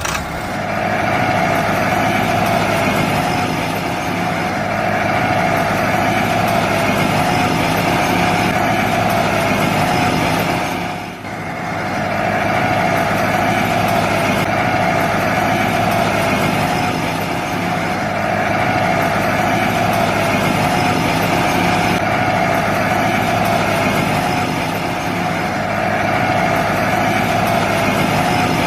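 Small motor running steadily with a high whine, dipping briefly about eleven seconds in.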